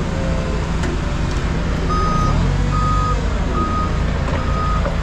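A vehicle's engine runs with a steady low rumble. About two seconds in, its reversing alarm starts beeping at a single pitch, a little over one beep a second.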